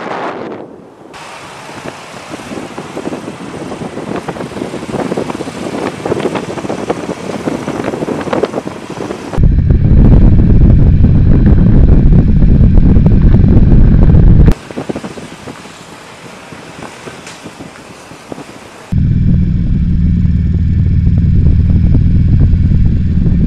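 Road, engine and wind noise from riding motorcycles, cut into several stretches: a steady hiss at first, then two very loud low rumbles, from about ten to fourteen seconds and again from about nineteen seconds on, with a quieter stretch between them.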